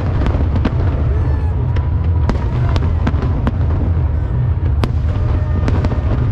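Fireworks display: a run of sharp, irregularly spaced bangs and crackles, about two a second, over a continuous low rumble.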